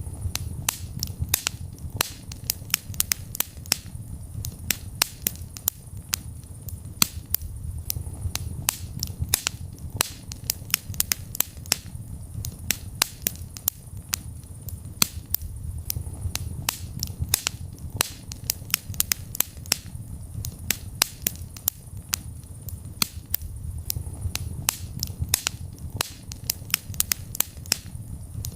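Wood fire crackling in a fireplace: dense sharp snaps and pops several times a second over a low rumble of the flames that swells and eases every few seconds.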